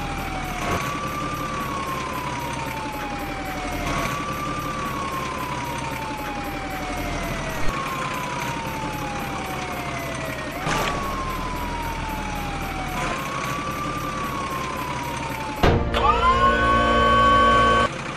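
Electronic siren sound: a wailing tone that slides slowly down in pitch and restarts about every three seconds. Near the end it switches abruptly to a louder, steady blare of several held notes for about two seconds.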